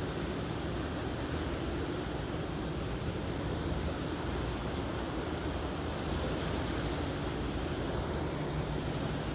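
Steady rushing noise of wind and water, with a faint low hum underneath.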